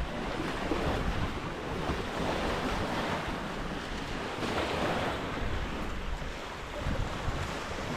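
Sea waves washing onto a beach, a steady rush that swells and eases, with wind buffeting the microphone.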